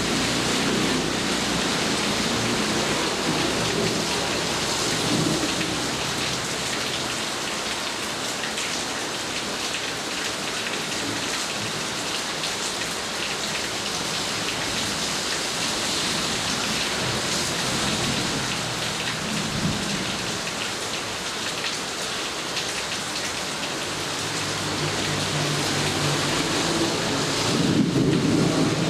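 Heavy rain falling steadily, with low rumbles of thunder near the start and a louder rumble near the end.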